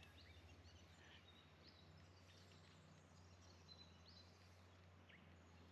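Near silence outdoors, with faint scattered bird chirps.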